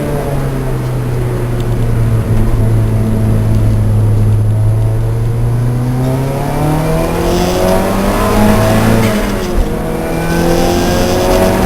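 Lancia Delta race car's engine at racing speed: it holds a steady note for about six seconds, then revs up, drops briefly at a quick gear change about nine seconds in, and revs up again.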